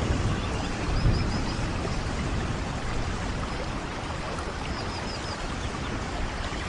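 Steady heavy rain falling, with a low rumble of thunder about a second in. Faint high chirps come twice, once early and once near the end.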